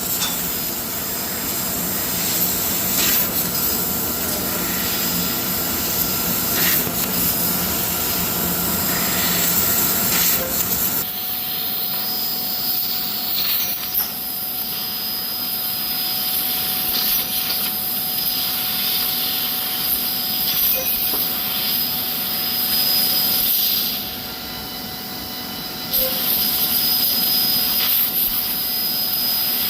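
Metal-cutting machinery running steadily with a continuous high hiss. The sound changes character about a third of the way in, losing some of its low rumble, and drops briefly in level for a couple of seconds before resuming.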